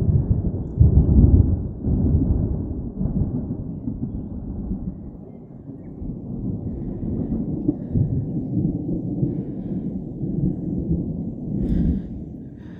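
A long roll of thunder, loudest in the first couple of seconds, rumbling on in waves and dying away near the end.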